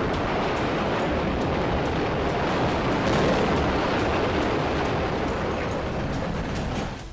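A loud, steady rushing noise that starts abruptly and drops away near the end.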